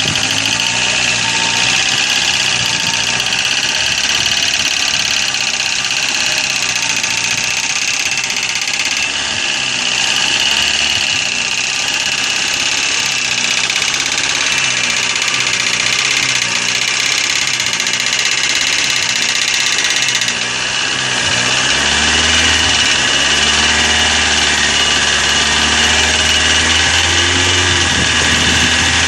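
Chevrolet Corsa engine running, with the noise of hydraulic lifters slow to pump up with oil, which the owner blames on a dirty oil pickup in the sump. The tone shifts about twenty seconds in and a deeper steady hum joins.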